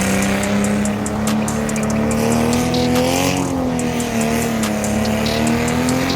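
Car engine held at high revs during a drift, its pitch wavering up and down, with tyres squealing.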